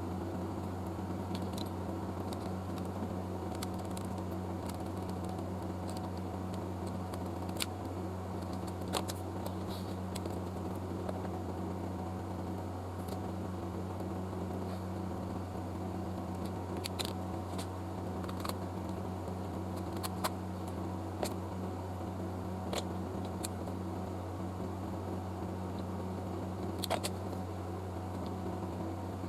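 Steady low electrical hum with a few sharp small clicks and taps scattered through it.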